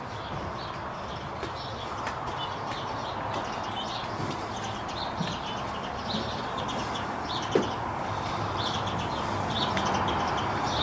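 Small birds chirping, many short high chirps in quick succession, over a steady hiss of background noise that slowly grows louder.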